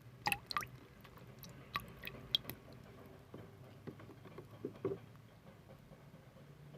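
Irregular wet clicks and squishes, with a few sharp ones in the first half and another cluster near the end.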